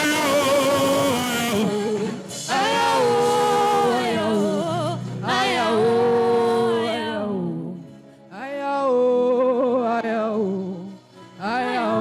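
Slow gospel worship singing: a lead voice holding long, wavering phrases with vibrato, breaking off briefly between them, over a low sustained note.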